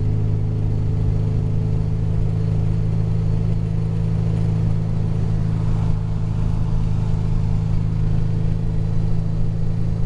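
1961 Porsche 356 Super's air-cooled flat-four engine running steadily at highway cruise, heard from inside the cabin over a steady hiss of road and wind noise.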